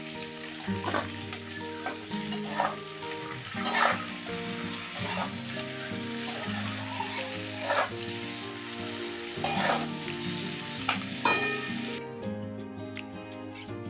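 Cabbage, onion and capsicum sizzling in hot oil in a pan while being stirred, the utensil scraping against the pan about seven times.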